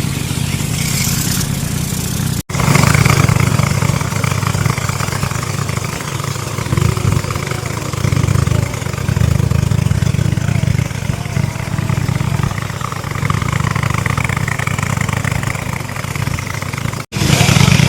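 Speedboat engine running steadily at speed, a loud continuous drone, cut by two brief dropouts.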